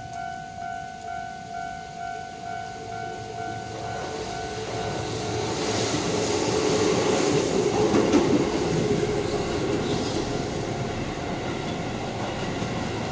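Japanese level-crossing warning bell ringing about twice a second, then a Keihan 8000 series electric limited express running past, growing louder to a peak about eight seconds in, its running noise all but drowning the bell.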